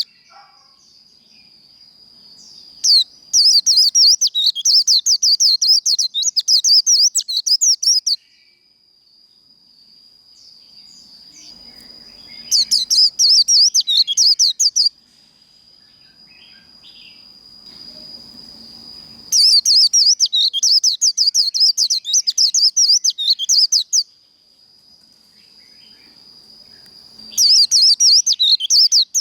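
White-eye (vành khuyên) singing its rapid, high-pitched 'líu' warbling song in four bursts of two to five seconds each, with a thin steady high whistle holding between the bursts.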